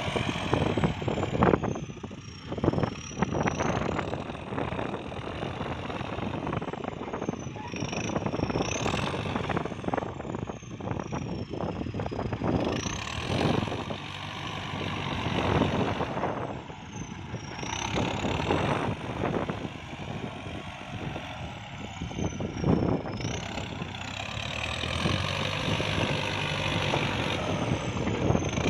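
Kubota farm tractor engine running under working load, with a high whine that slowly falls and then quickly rises again every four to five seconds, and scattered knocks and clatter.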